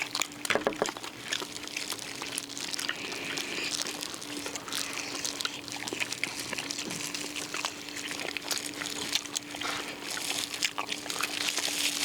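Eating sounds: chewing and handling grilled duck, with many small wet, crisp clicks over a faint steady hum.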